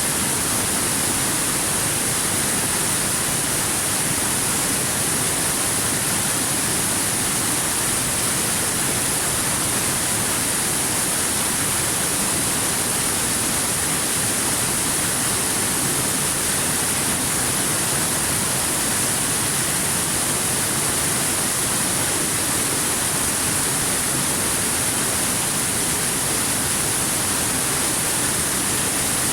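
Waterfall: a steady, unbroken rush of falling water, with a hiss strongest in the high treble.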